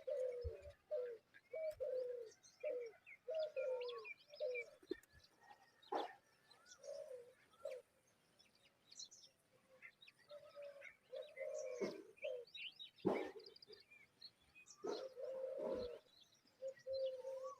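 A dove cooing in repeated low phrases, pausing for a couple of seconds midway, with scattered high chirps of small birds and a few sharp knocks.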